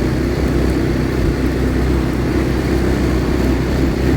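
ATV engine running steadily while the quad is ridden.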